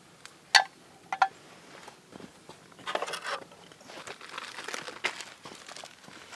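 Two sharp clicks about half a second apart, then a few seconds of irregular crinkling and rustling handling noise.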